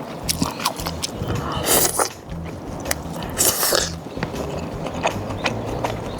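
A person chewing food close to the microphone, with many small wet clicks and two louder, brief crunchy bursts about two seconds and three and a half seconds in.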